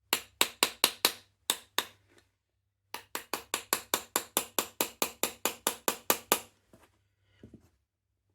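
Small hammer tapping a pin home into an air rifle's trigger group, in two runs of quick, sharp taps: a short run, a pause of about a second, then a longer, steady run of about four or five taps a second, followed by a few faint knocks.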